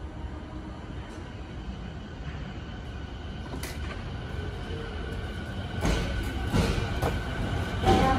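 JR East 209 series electric commuter train pulling out of the station platform. It stays low and steady at first; from about six seconds in, its running noise grows louder as it gathers speed.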